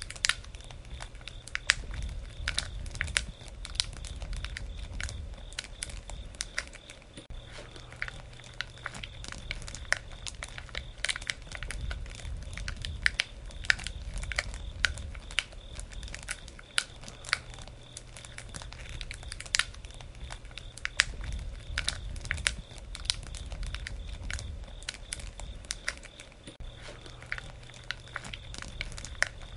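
Campfire burning: wood crackling and popping in quick irregular snaps, over a soft low rumble of flames that swells and fades.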